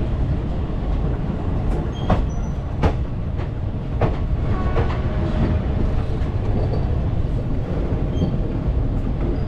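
Indian Railways express train running on the rails: a steady low rumble with a few sharp metallic clanks about two to four seconds in.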